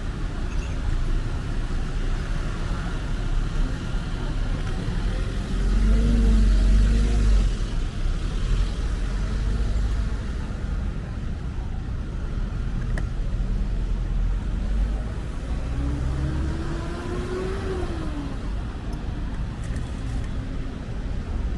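Road traffic, with cars driving past; the loudest vehicle passes about six seconds in, and an engine tone rises and falls near sixteen to eighteen seconds.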